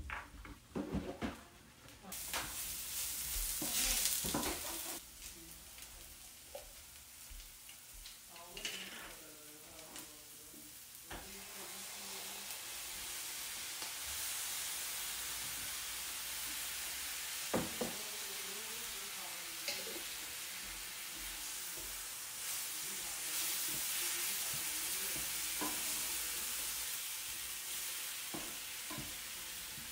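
Vegetables and sauce sizzling in a frying pan on an electric stove, stirred with a wooden spatula. There is a loud burst of sizzling about two seconds in, and a steady sizzle builds again from about eleven seconds on.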